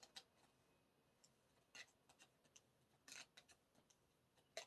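Faint handling of a small stack of photocards: a few soft ticks and brief rustles as the cards are shuffled and looked through, the clearest just before the end.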